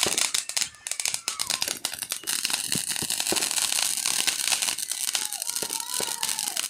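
Fireworks and firecrackers going off, a dense, irregular run of pops and crackles.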